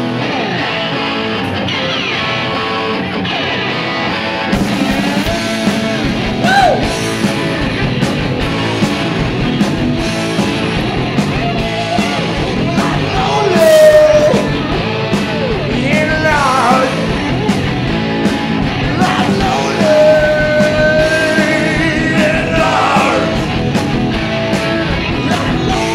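Live rock band playing loudly, with drums, bass, electric guitar and lap steel guitar. The low end and beat fill in about four seconds in, and sliding, sustained lead notes rise and fall over the band later on.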